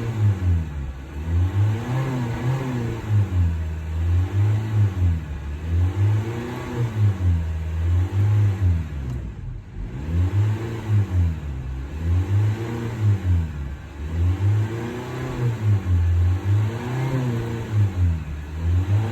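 2020 Honda Civic engine being revved over and over from idle: the pitch climbs and falls back about once every two seconds, with a short drop near the middle.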